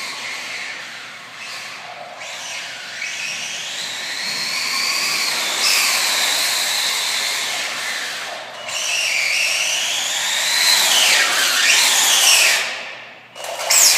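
Electric motor of a Traxxas Slash 4x4 RC truck whining at full throttle, its pitch rising and falling repeatedly as the truck speeds up and slows. The whine drops away sharply just before the end, then comes back.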